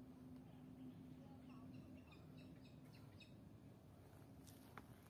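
Near silence with faint forest ambience: a run of short, soft bird chirps about halfway through, over a low steady hum.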